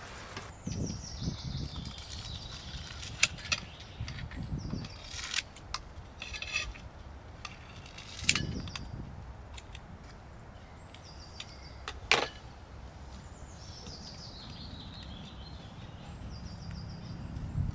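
Scattered clinks and knocks of cooking utensils and dishes, with a few duller thumps, over a steady background hiss.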